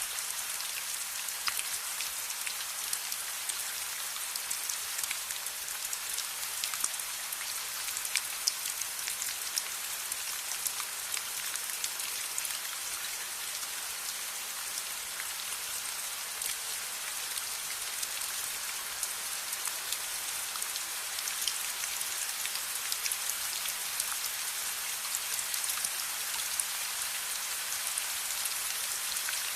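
Steady rain: an even hiss dotted with many small sharp ticks of drops.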